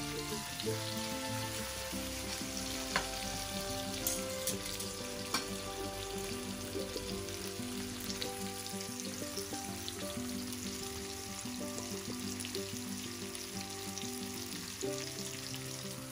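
Salmon fillets sizzling steadily as they fry in hot oil in a nonstick frying pan, with a few light clicks of metal tongs against the pan in the first few seconds. Background music plays underneath.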